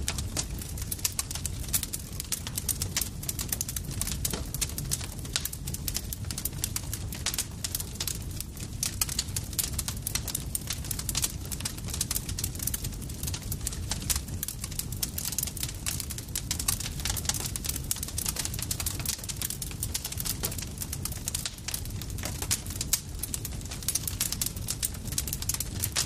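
Campfire crackling: a dense, irregular run of sharp pops and snaps over a steady low rumble of burning wood.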